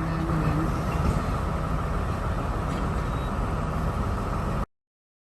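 Train noise: a steady rumble with a low engine hum, which cuts off abruptly near the end.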